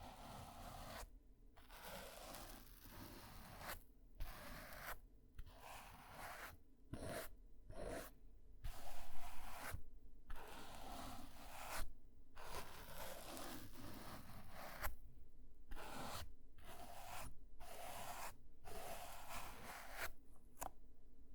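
Ear-cleaning ASMR: a tool scraping and rubbing against a microphone's ear in repeated scratchy strokes, each broken off by a short pause.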